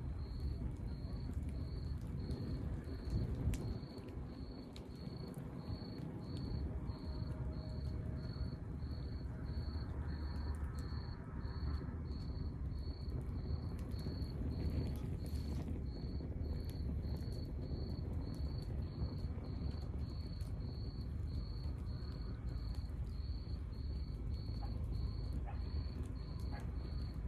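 Log fire burning with a low rumble and scattered faint crackles, while a cricket chirps steadily, about one and a half short high chirps a second.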